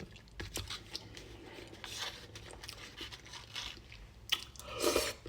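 Close-miked eating of fried chicken: biting, crunching and chewing the crispy crust, with scattered small clicks and crackles and a louder noisy crunch or smack near the end.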